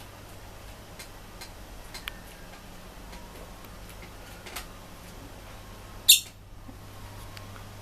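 A masked lovebird moving about on a wooden chest of drawers: a few faint light clicks and taps, then one short, sharp high-pitched sound about six seconds in, over a steady low hum.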